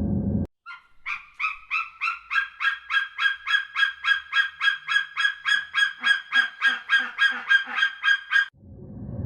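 A bird calling in a long, even series of short honking calls, about three a second. A steady rumble cuts off half a second in and comes back near the end.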